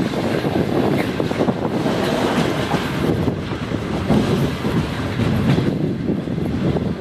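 A 25B passenger coach running along the track, heard from an open window: a steady loud rumble and rattle of wheels on rail with rapid irregular clicks, clickety-clack.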